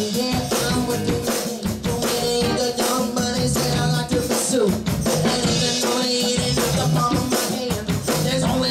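Live rock band playing an upbeat song with a steady drum-kit beat over bass and guitar.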